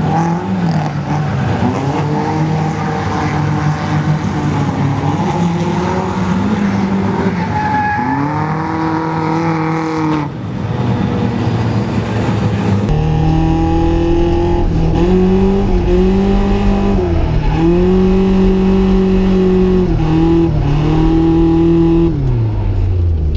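Nissan 240SX drift car's engine revving hard, its pitch climbing and dropping again and again through a drift run, with tyre squeal over it. About halfway through the sound turns abruptly fuller and louder.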